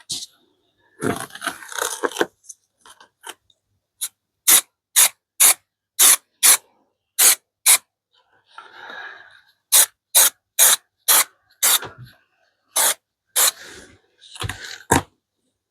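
Aerosol can of contact spray adhesive being sprayed in short, sharp hissing bursts, about two a second, in two runs separated by a pause, with some rustling handling in between.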